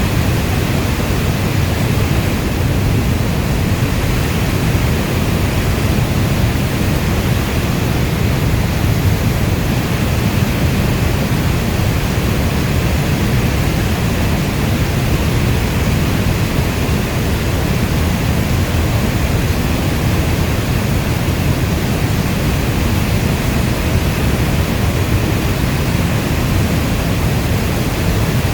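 Steady rainstorm: an even, constant hiss of rain with a deep low rumble underneath and no single drops or thunder standing out.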